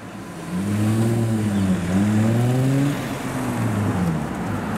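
1995 Audi A4 engine revving hard as the car accelerates away: the pitch climbs, dips about a second and a half in, climbs again, then falls away after about three seconds.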